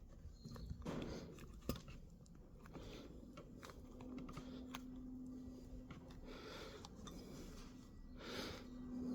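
Faint clicks and light handling noises of small brake master cylinder parts being worked by hand, with a steady low hum that starts about four seconds in.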